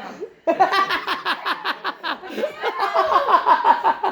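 People laughing: a long run of rapid laughter pulses that starts about half a second in and climbs higher in pitch toward the end.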